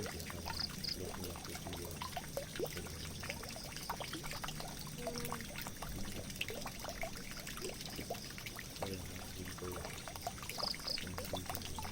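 Water trickling and pouring steadily, full of small drips and gurgles, as of water running into a drain. A faint low hum comes and goes underneath.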